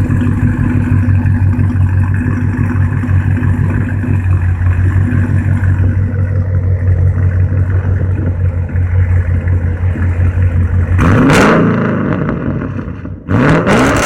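Pontiac G8 GT's 6.0-litre V8 idling with a lumpy, pulsing exhaust through long-tube headers, an X-pipe and no catalytic converters. About 11 seconds in it is revved up and falls back, then revved again just after 13 seconds.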